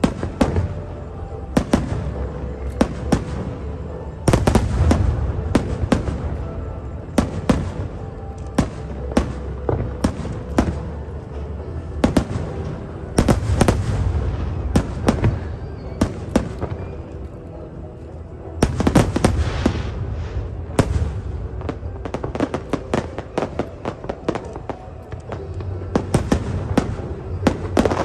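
Aerial fireworks display: a rapid, uneven series of sharp bangs and crackles, with heavier barrages of booms about four, thirteen and nineteen seconds in.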